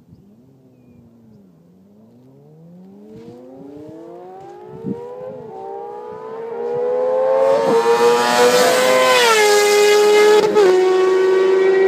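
Suzuki GSX-R and Kawasaki ZX-6R sport bikes accelerating hard toward the microphone, the engine note climbing in pitch and dropping back at upshifts, about twice. It starts faint and grows very loud, ending in a high, steady scream.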